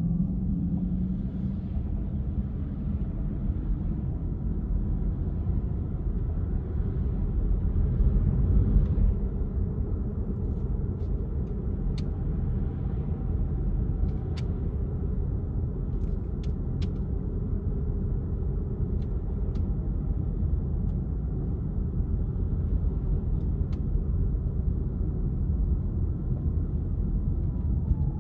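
Car driving through city streets: a steady low rumble of engine and road noise, swelling slightly about a third of the way in, with a few faint scattered clicks in the middle.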